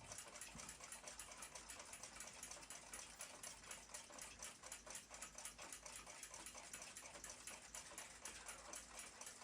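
Faint, fast, even ticking of a clock, several ticks a second.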